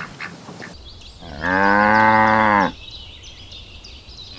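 A cow mooing once: a single long moo of about a second and a half, rising at the start, holding steady, then falling away at the end.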